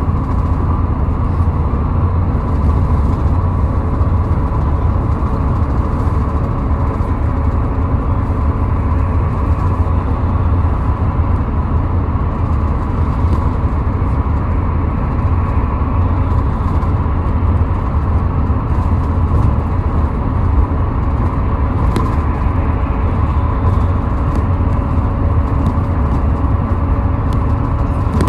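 Car driving at highway speed: a steady, loud rumble of road and engine noise with a faint constant whine and no change in speed.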